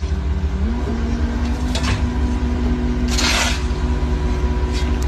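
A vehicle engine running steadily: a low rumble with a hum that climbs a little about half a second in and then holds, with two short hissing bursts partway through.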